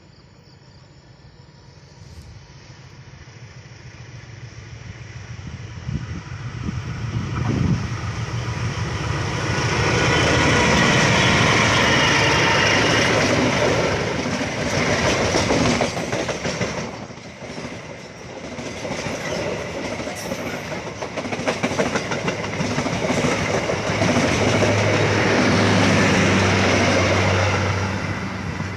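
A train approaching and passing close by, its wheels clattering over the rail joints along with the running of the locomotive's engine. It grows louder over the first ten seconds, then stays loud until near the end.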